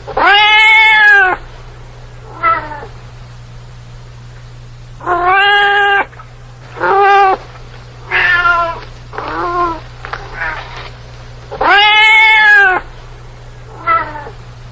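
Domestic cat meowing repeatedly, about eight meows of varying length, each rising then falling in pitch. The longest and loudest come at the start and about twelve seconds in, with shorter, fainter meows between.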